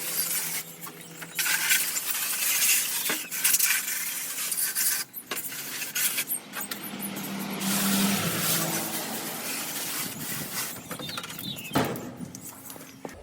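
A jet of water from a hose spraying hard against air-conditioner parts, a loud hiss that breaks off briefly a few times and stops at the end.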